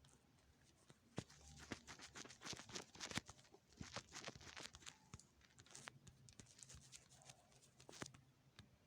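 Faint, scattered clicks and brief rustles, thickest in the first half and with one more sharp click near the end.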